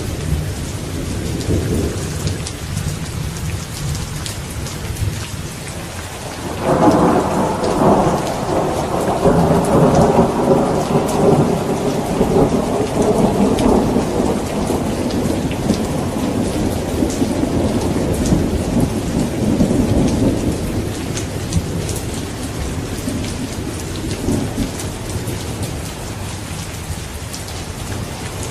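Steady heavy rain with a long roll of thunder that breaks in suddenly about six seconds in, rumbles on for over ten seconds and slowly dies away.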